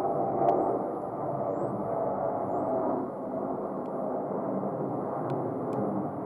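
Jet engine drone from a Delta Boeing 717's twin rear-mounted turbofans, a steady rushing sound with faint tones in it. A few faint high chirps sound over it.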